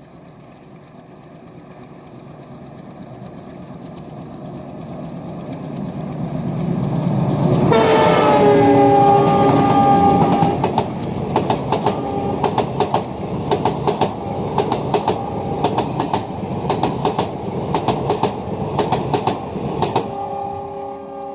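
Alco WDG3A diesel locomotive approaching, its engine rumble growing steadily louder, then sounding its horn, a chord of several tones held for about three seconds as it passes. The horn gives way to a rhythmic clickety-clack of the passenger coaches' wheels over the rail joints.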